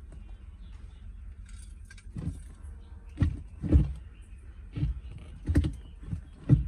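Irregular knocks and metallic clanks of metal car parts and tools being handled, about seven strokes starting about two seconds in, over a low steady hum.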